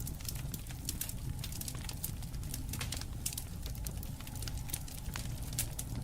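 Wood campfire crackling, with frequent irregular sharp pops and snaps over a low, steady rumble of flame.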